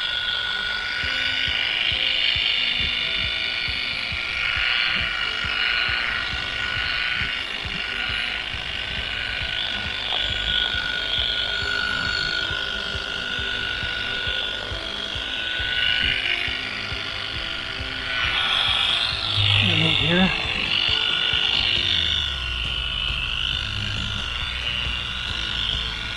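Small 3-inch polishing buffer running with a steady motor whine and rattle as its pad works over a metal exhaust stack; the pitch dips briefly and recovers about three-quarters of the way through.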